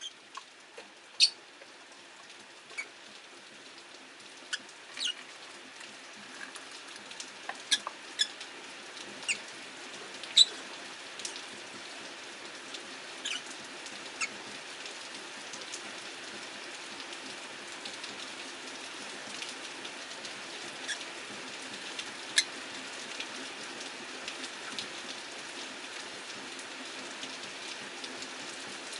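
Steady hiss of rain with scattered short, high chirps from rosy-faced lovebirds, more frequent in the first half.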